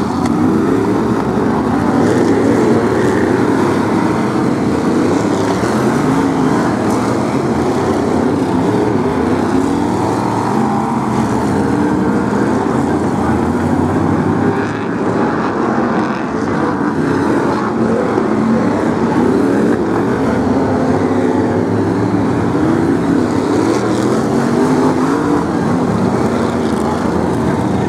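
Several BriSCA F1 stock cars' V8 engines running together as the cars lap, a loud, unbroken engine noise whose pitch keeps rising and falling.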